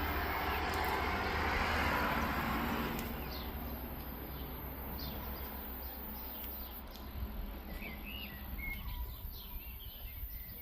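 Small birds chirping and twittering in short, high calls, more of them after the first few seconds, over a steady low rumble. A broad rush of noise fills the first three seconds and then fades.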